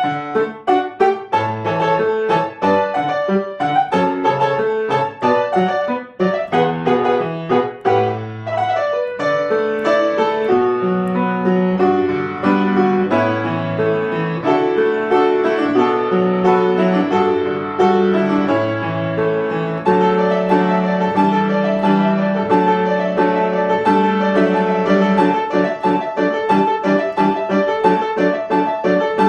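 Piano playing a piece: fast runs of notes for about the first ten seconds, then repeated chords over held low notes.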